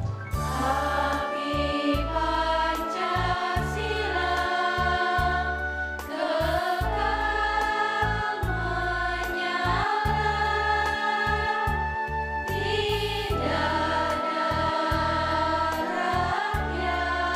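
Choir singing a campus march in several voice parts, holding long notes over a keyboard-style accompaniment with a steady low bass.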